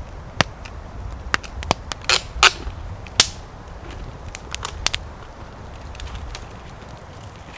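Wood fire crackling: irregular sharp pops from burning firewood, the loudest bunched between about two and three seconds in, over a low rumble.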